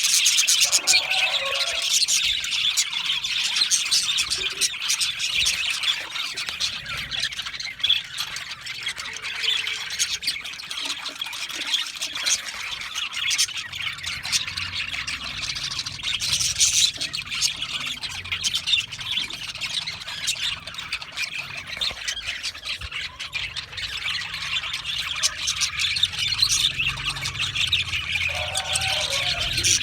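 A flock of budgerigars chattering continuously: many overlapping high-pitched chirps, warbles and squawks.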